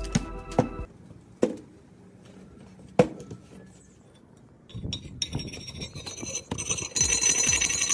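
A rusty iron axe head clinks sharply twice against the worktable as it is handled. From about five seconds in, a steel rod scrapes and chips at the flaking rust scale in quick, rough strokes.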